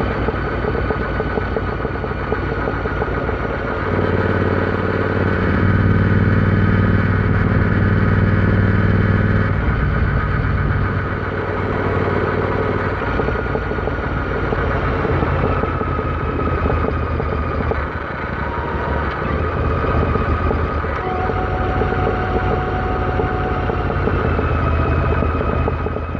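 Royal Enfield Interceptor 650 parallel-twin engine running steadily. It grows louder and fuller from about four seconds in until about ten seconds, then settles back, with small slow shifts in pitch.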